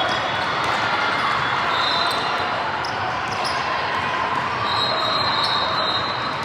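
Youth basketball game in a gym: the ball bouncing and sneakers squeaking on the court over steady crowd noise, echoing in the hall.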